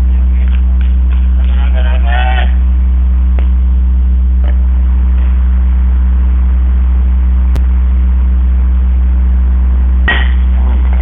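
A steady low electrical hum, like mains hum, fills the recording throughout. Faint distant voices come in the first couple of seconds, there is one sharp click later on, and a brief call comes near the end.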